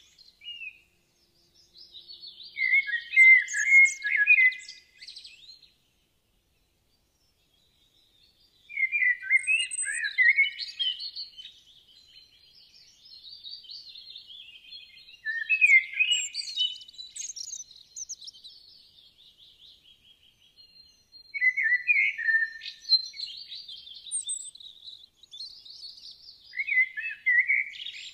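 Birds chirping and twittering in quick high-pitched bursts, with short pauses between the bursts and a gap of complete silence of about two seconds a few seconds in.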